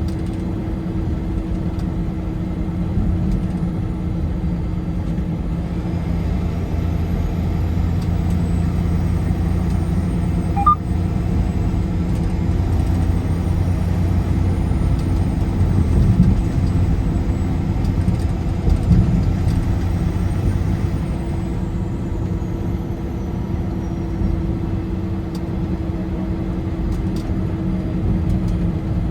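Car driving at highway speed: a steady rumble of engine and tyres on the road, with a brief click about ten seconds in.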